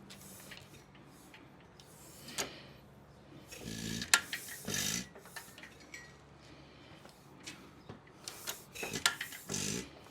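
Scattered metal clicks, taps and rubbing from hands working on a 1929 International M hit-and-miss engine, with no regular firing heard: the engine does not start.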